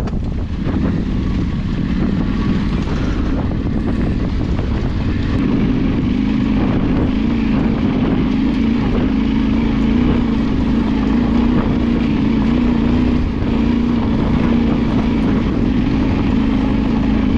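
A vehicle engine running steadily, its note stepping up a little about five seconds in, with wind noise on the microphone.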